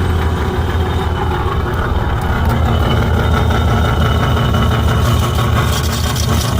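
2013 Cadillac CTS's 3.0 V6 engine running steadily with the automatic transmission in reverse, heard from beneath the car, along with a steady noisy rumble from the driveline. The car won't move in gear, which the mechanic takes for a blown-apart rear differential.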